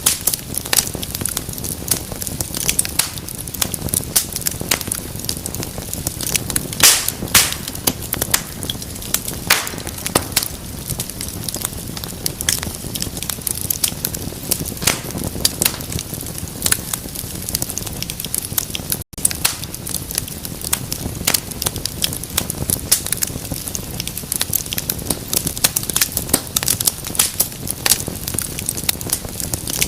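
Wood fire in a fireplace crackling, with frequent sharp irregular pops over a low steady rustle of flames. The sound drops out for an instant partway through.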